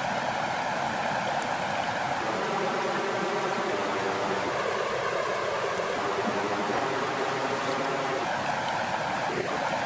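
Steady rushing of flowing water at a lakeshore.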